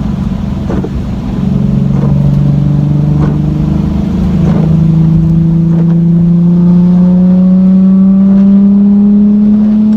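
Nissan 370Z's 3.7-litre V6 with a muffler delete, running loud under light acceleration, heard from inside the car. Its pitch climbs slowly and steadily, with a shift in the tone about four seconds in.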